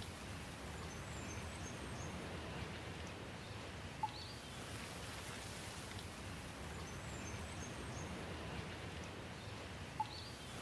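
Steady rain hiss. Faint high bird chirps come around one and seven seconds in, and a short sharp tick at about four and ten seconds, the pattern repeating every six seconds.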